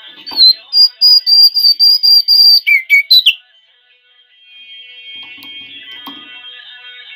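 A bird's loud, high-pitched whistled trill of rapidly repeated notes, lasting about three seconds and ending in a few lower notes, over faint background music.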